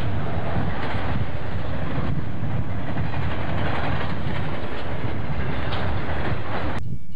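Santa Fe intermodal freight train's flatcars loaded with highway trailers rolling past close by: a steady rumble and clatter of steel wheels on rail. It cuts off abruptly near the end.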